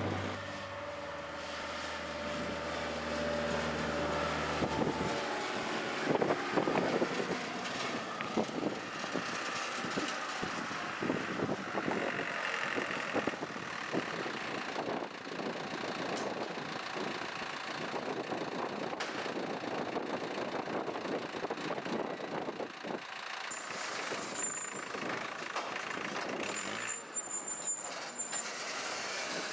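Music fading out in the first few seconds, then farm machinery running with a dense, uneven rattle and clatter. A short high beep sounds twice near the end.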